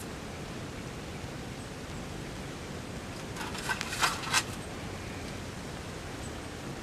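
Steady hiss of rain falling, with a short cluster of sharp clicks and crackles about three and a half to four and a half seconds in.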